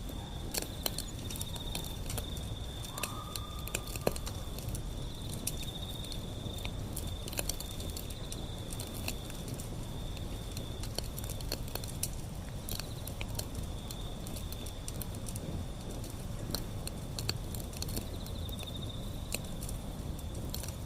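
Wood fire burning, with a steady low rumble of flame and frequent irregular crackles and small pops from the burning wood.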